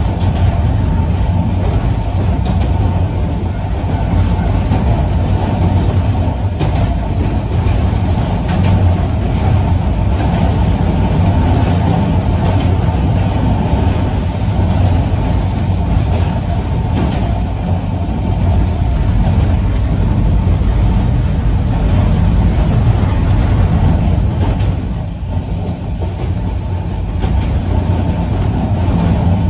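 Cabin running noise of a Sanko Railway Hokusei Line narrow-gauge electric train in motion: a steady, loud low rumble of wheels on rail and running gear. It drops briefly about 25 seconds in, then picks up again.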